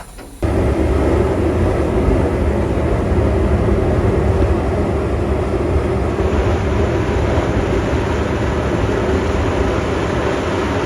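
Boiler blowdown on a 2-10-0 Decapod steam locomotive. The bottom blowdown valve at the front of the boiler opens about half a second in and blasts out steam and water in a loud, steady rush for about ten seconds, then shuts off suddenly. The blowdown clears sediment and scale that settle at the lowest part of the boiler.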